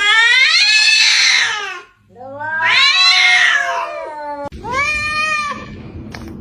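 Domestic cat meowing: two long, drawn-out yowls that rise and then fall in pitch. After an abrupt break comes a shorter meow.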